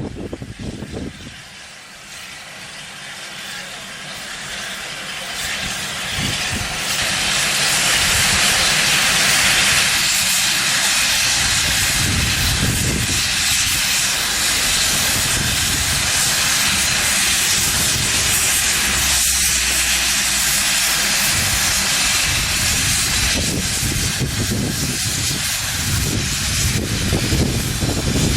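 Steam locomotive letting off steam: a loud, steady hiss that builds over the first several seconds and then holds.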